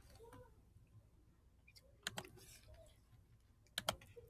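Near silence broken by a few short, sharp clicks: a pair about two seconds in and a quick cluster near the end.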